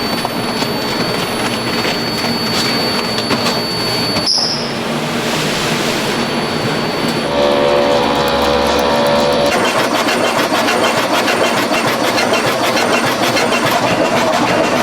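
Production-line machinery making car air-conditioning filters, running steadily with dense clattering and whirring. The sound changes abruptly about four seconds in, and again near ten seconds in; a steady hum comes in for a couple of seconds just before the second change.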